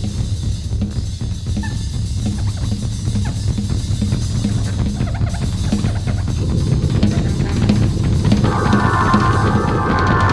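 Instrumental music from a small brass-and-rhythm ensemble, with the drum kit keeping a steady beat over a low bass line. A sustained pitched part comes in near the end.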